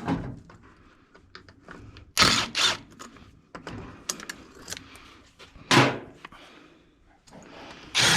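A few loud clunks and clatters of hand tools and metal parts being handled. They come at the start, about two seconds in, near six seconds and at the end, with quieter rattling between.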